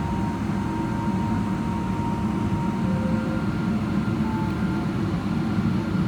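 Steady low rumble inside the cabin of a Boeing 777-300ER taxiing, its GE90 engines at taxi power, with a faint thin whine that comes and goes.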